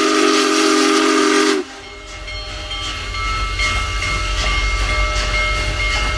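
Union Pacific Big Boy No. 4014 steam locomotive's chime whistle blowing a loud chord that cuts off about a second and a half in, followed by the rumble of the passing train building steadily, with a faint thin ringing over it.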